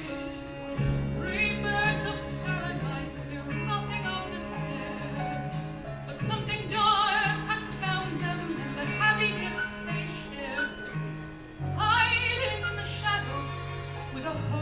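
Female vocalist singing a musical-theatre song with a wide vibrato, backed by a band with piano, bass and strings. The sung phrases come in about a second in, and a new phrase starts near the end.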